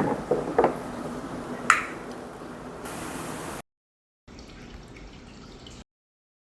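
Small water feature dripping and trickling, with a few distinct drop plinks in the first couple of seconds. The sound comes in short edited segments with dead silence between them, the second segment fainter.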